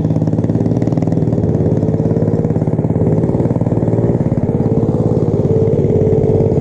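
Mini bike's small single-cylinder engine running at a steady speed. From about a second and a half in, a wavering whine rides over it.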